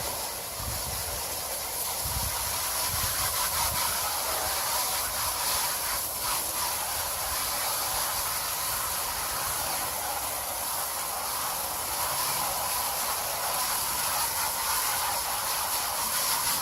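Garden hose spraying water onto an air-conditioner condenser coil to rinse out cottonwood: a steady hiss.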